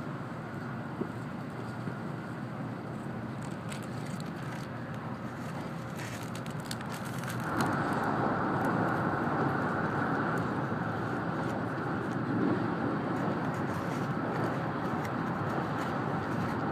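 Cabin noise inside an N700 series Shinkansen running at speed, a steady rumble of wheels and rushing air. About halfway through it suddenly grows louder as the train runs out onto a river bridge.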